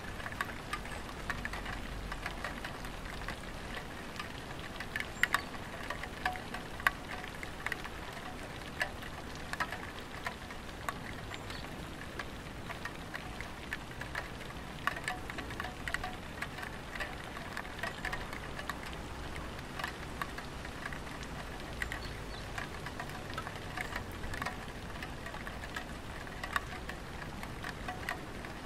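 Light rain falling on a tiled roof: a steady hiss with many separate drops tapping at irregular moments throughout.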